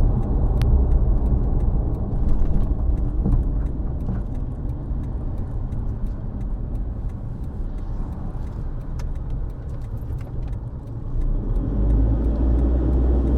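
Car driving along a highway: steady low engine and road rumble, growing a little louder near the end.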